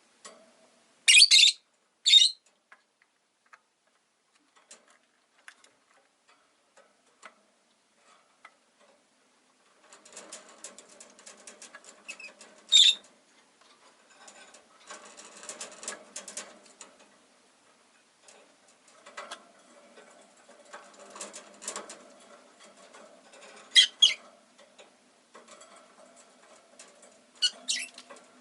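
Rosy-faced lovebird giving short, sharp high chirps: two near the start and single ones later. From about ten seconds in there are stretches of busy scratching, clicking and rustling from the birds moving about and nibbling.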